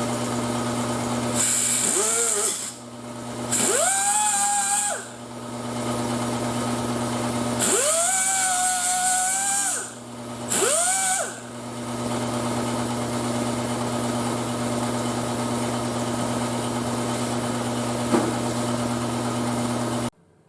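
Power tool cutting sheet metal, triggered in four bursts; each time its whine rises as it spins up, holds with a loud hiss, then winds down. A steady motor hum runs underneath and cuts off abruptly near the end.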